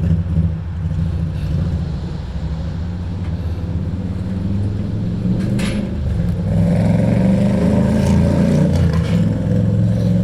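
1956 Dodge tow truck's engine running at low revs under load as the truck climbs a car ramp, growing louder and working harder from about six and a half seconds in. A brief clatter near the middle.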